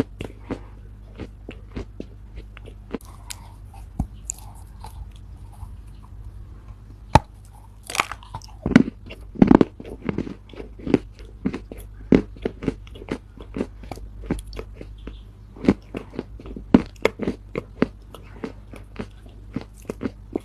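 A person biting and chewing chunks of Chinese loess, a dry clay soil: irregular soft crunches, with a denser run of louder crunches about eight to ten seconds in.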